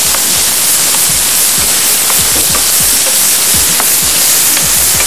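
Diced zucchini and purple sweet potato sizzling in a frying pan as they are stirred with a wooden spatula, under background music with short low thumps.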